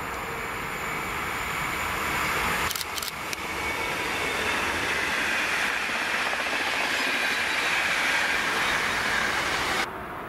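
Electric passenger train passing at speed: a rushing roar of wheels on rail and air that builds as the train comes alongside, then cuts off abruptly just before the end.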